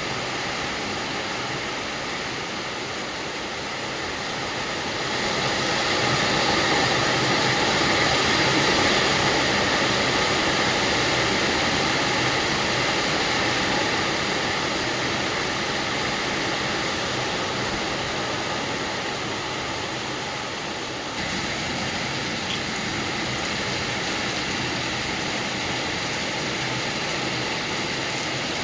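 Heavy rain pouring down in a steady hiss, swelling louder about five seconds in and then easing a little.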